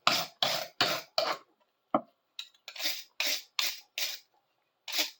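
Hand rubbing strokes scrubbing rust residue and gunk off a steel chisel, in quick back-and-forth strokes about two to three a second, with a short pause about two seconds in.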